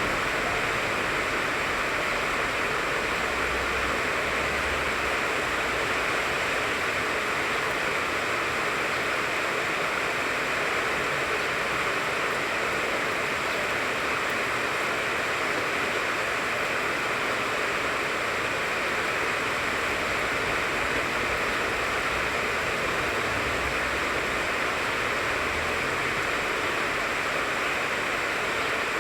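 Steady rain falling on a tangerine tree, an even, unbroken hiss of drops that holds the same level throughout.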